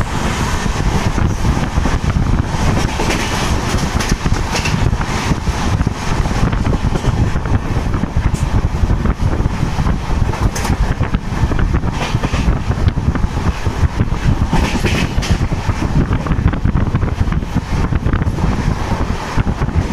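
Wind buffeting the microphone at the open door of a moving passenger train, over the steady low rumble of the coach running along the track.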